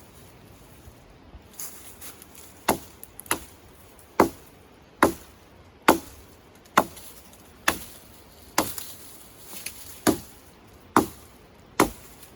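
Wood being chopped: about a dozen sharp, evenly paced blows, roughly one a second, starting a few seconds in.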